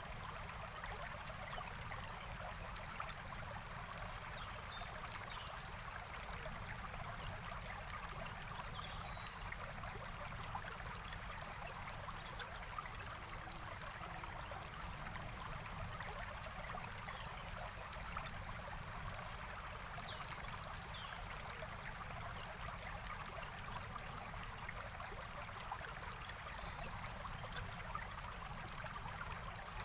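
Forest stream flowing steadily, an even rush and trickle of water, with a few faint high bird chirps scattered through it.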